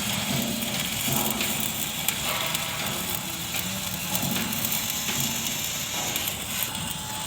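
Electric arc welding crackling and hissing steadily, over a low hum.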